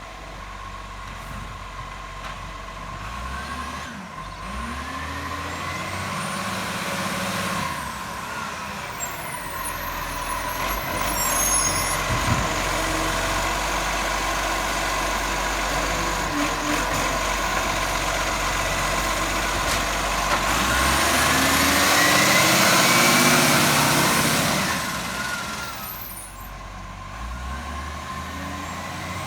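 Garbage truck running and working close by, its engine and machinery getting louder and loudest about three-quarters of the way through, then easing off. A thin steady high tone sounds throughout.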